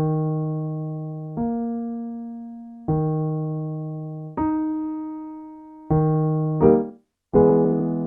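Piano or keyboard playing the cue notes for a fifth-and-octave vocal slide exercise. A low note, then the fifth above it, the low note again, then the octave are each struck about every one and a half seconds and left to fade. Near the end the low note is struck twice in quick succession and a chord follows.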